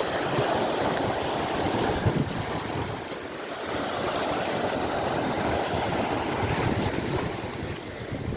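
Sea surf washing steadily onto the shore, mixed with wind rumbling on the microphone.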